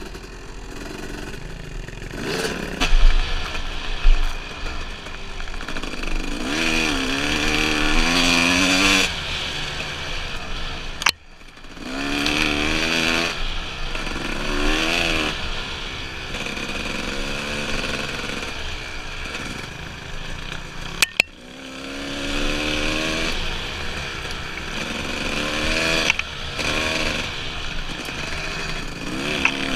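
Dirt bike engine revving up and down over and over as it rides the trail, with wind rushing on the microphone. The sound breaks off sharply twice, about eleven and twenty-one seconds in, and there are a couple of thumps a few seconds in.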